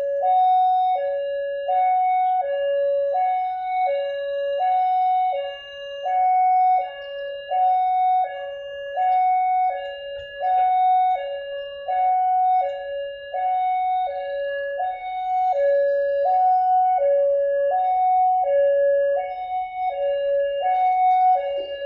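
Railway level-crossing warning alarm sounding: an electronic two-tone signal alternating steadily between a higher and a lower note, about one high-low pair a second, warning that a train is approaching.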